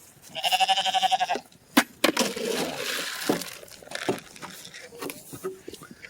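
A bleating farm animal gives one wavering call about a second long. It is followed by a sharp crack and a couple of seconds of rustling, scraping noise with a few knocks.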